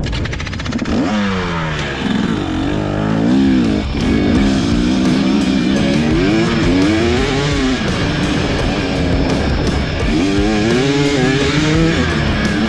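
KTM 300SX two-stroke dirt bike engine revving up and down on the track, its pitch rising and falling every second or two as the throttle opens and closes. Guitar music plays along with it.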